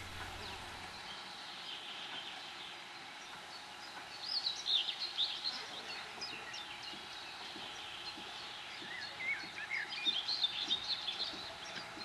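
Songbirds chirping and singing in two short spells of quick, high notes, about four seconds in and again near ten seconds, over a steady faint outdoor hiss.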